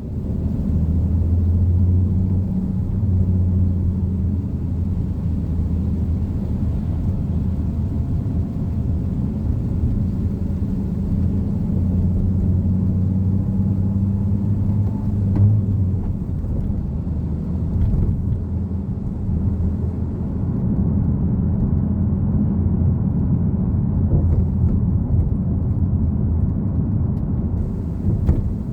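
Nissan Fairlady Z (Z34) 3.7-litre V6 running on the move: a steady low engine drone whose note drifts slightly up and down with the driving.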